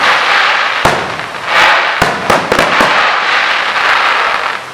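Fireworks display: a sharp bang about a second in and a quick cluster of bangs around two seconds, over a continuous loud hiss from the burning effects, which drops away near the end.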